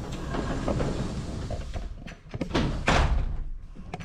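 A few knocks and thumps over a steady rustling noise, the loudest thump about three seconds in.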